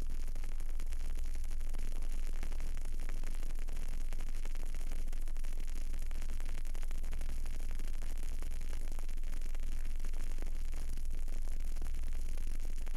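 Burning candle picked up close: faint fine crackling over a steady low hum and hiss.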